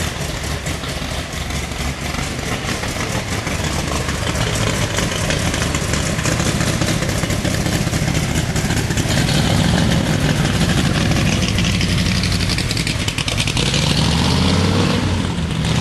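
Stroked 521-cubic-inch Ford 460 big-block V8 with a Holley 4150 double-pumper carburettor idling steadily with a rapid, even exhaust beat, still warming up a minute after a cold start.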